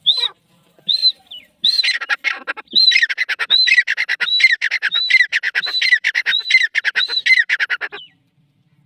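Grey francolin calling: a few separate harsh notes, then a fast series of loud, rasping repeated phrases about every two-thirds of a second, which stops about eight seconds in.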